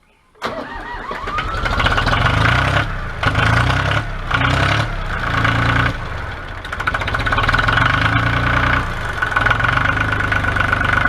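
Ford 1900 compact diesel tractor engine starting from cold: it catches about half a second in, runs unevenly with swells and dips for several seconds, then settles into a steady run.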